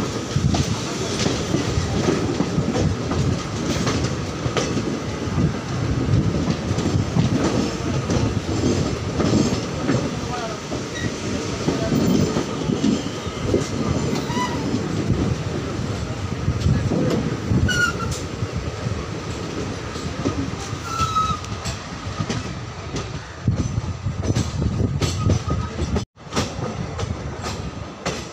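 Two passenger trains passing on adjacent tracks, heard from the open doorway of a moving coach: a steady rumble of wheels with rail joints clacking and a few short, high squeals. The sound drops out for an instant near the end.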